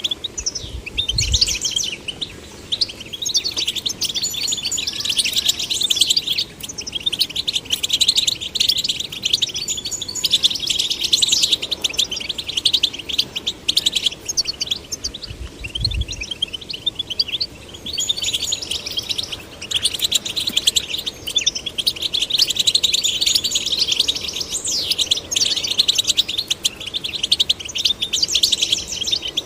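European goldfinch song: long runs of rapid, tinkling twitters and trills, nearly continuous with only brief pauses. Two short low thumps, one about a second in and one about halfway through.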